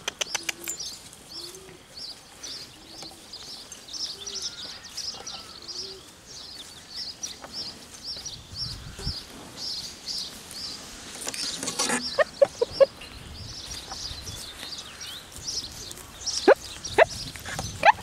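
Birdsong: a small bird chirping repeatedly in quick high notes, with low soft calls beneath it for the first several seconds and a few short, sharp sounds toward the end.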